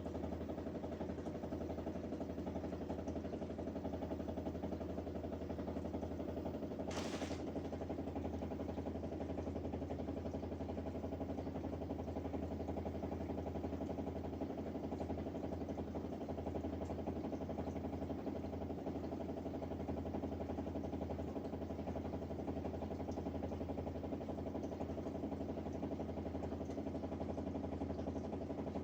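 LG dishwasher running with a steady, even mechanical hum made up of several low tones, the abnormal noise its owner reports as a fault. A brief hiss comes about seven seconds in.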